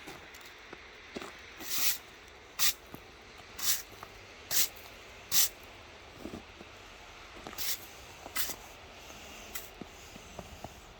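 A shovel scraping ice off railway track, in short hard strokes about once a second, seven in all with a pause after the fifth, to clear the rail tops and flangeways.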